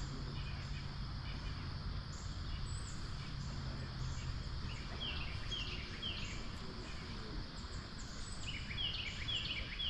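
Steady rush of stream water with a bird singing two short runs of quick descending chirps, three notes about halfway through and four near the end.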